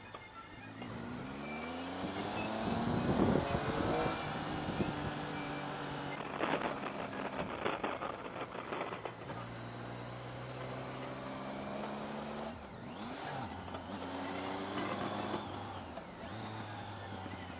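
Motorcycle engine heard from the rider's seat, its pitch rising and falling as it accelerates and slows through tight bends. A spell of wind flutter on the microphone comes about six seconds in and lasts a few seconds.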